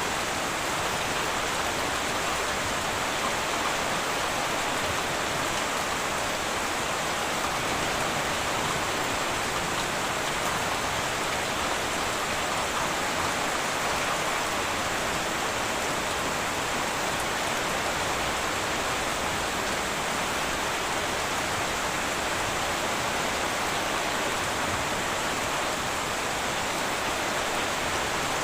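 Steady heavy rain on a tin roof: a dense, even hiss of drops with no thunder and no change in level.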